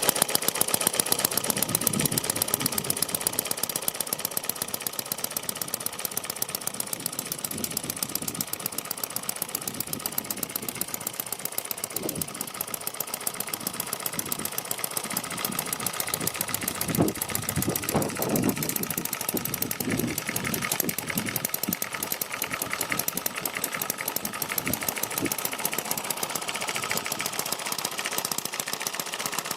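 Microcosm M92 engine running steadily with rapid, even firing pulses. It has an extended exhaust, retarded ignition timing and a shortened governor spring.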